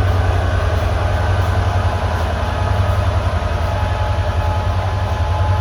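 Class 67 diesel-hauled passenger train pulling out and passing close by: a steady, loud, deep rumble of the diesel and the coaches on the rails.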